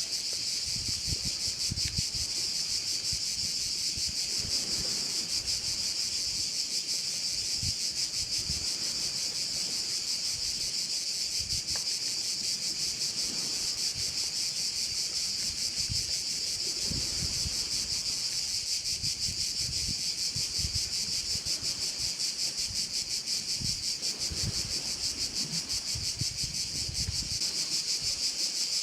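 Dense, continuous chorus of crickets, a high buzzing that holds steady without a break. Under it are irregular low rumbles of wind on the microphone.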